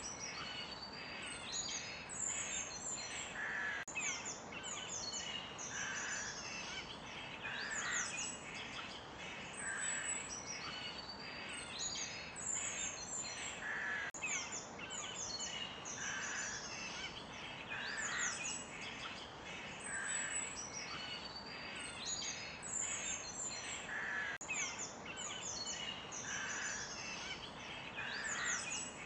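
Forest birds singing and calling: many short chirps and whistled notes, some sliding in pitch, over a steady soft hiss.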